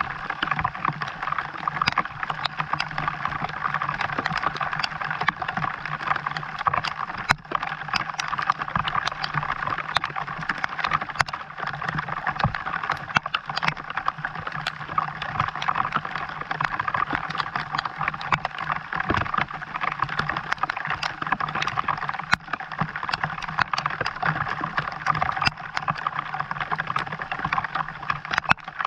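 Steady rain falling, a dense patter of many small drops and drips, with a steady low hum underneath.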